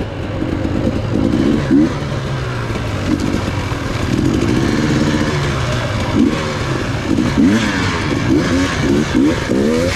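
Enduro dirt bike engine running under constantly changing throttle, its pitch rising and falling over and over, with quick repeated rises in revs in the last few seconds.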